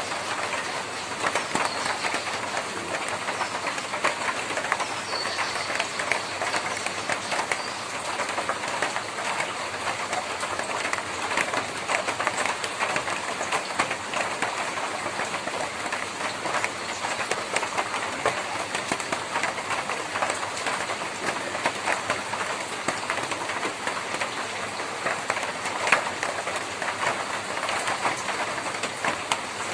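Rain falling on a tin roof: a dense, steady patter of countless small drop impacts on the metal, with one sharper tick near the end.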